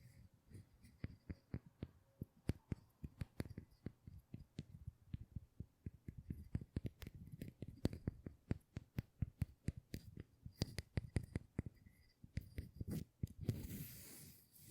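Close-miked ASMR trigger: quick, irregular sharp taps and clicks on an object, several a second, turning to a rubbing, brushing sound near the end.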